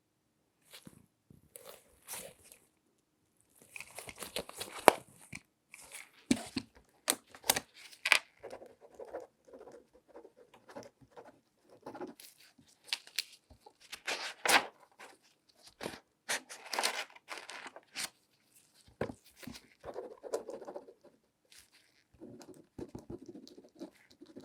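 Gloved hands handling objects close up: irregular bursts of crinkling and rustling with many sharp taps and clicks.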